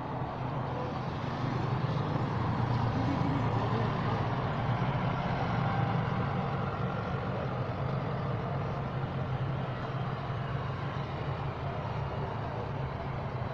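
Engine of a heavy vehicle running with a steady low drone, swelling a couple of seconds in and easing off toward the end, over a steady hiss.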